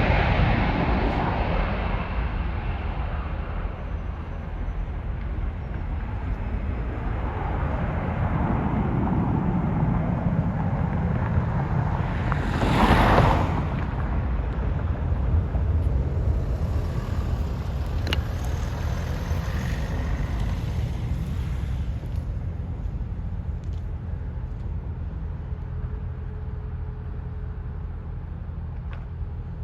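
Jet airliner engine rumble slowly fading away, with wind buffeting the microphone and one brief louder rush about halfway through.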